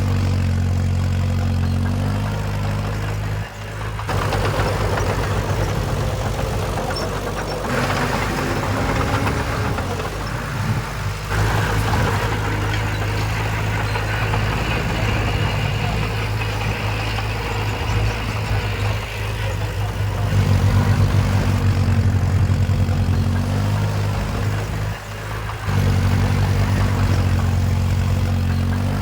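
Diesel engine of heavy earthmoving machinery running continuously, its note shifting a few times, with a stretch of added rattling noise about a third of the way through.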